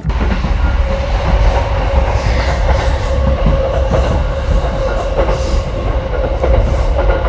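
Train running along the track: a loud, heavy low rumble with a steady hum above it. It starts suddenly.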